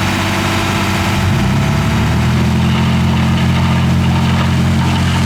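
Heavy diesel engine of earthmoving equipment running. The revs climb about two seconds in, then hold steady at the higher pitch.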